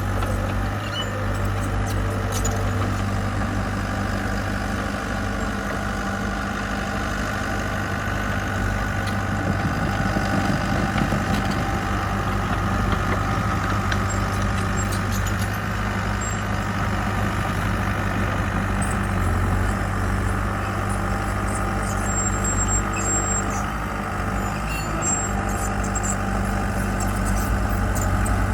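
Diesel engine of earthmoving machinery running steadily at a constant, low drone.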